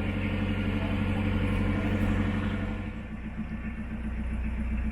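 Narrowboat's diesel engine running steadily at cruising speed, easing off slightly about three seconds in.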